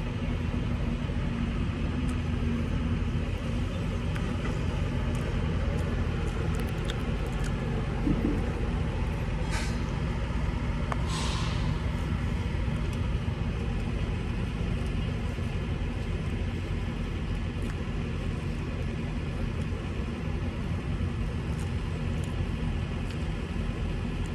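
Semi-truck engine and road noise inside the cab while driving, a steady low rumble. Two short hisses about ten and eleven seconds in.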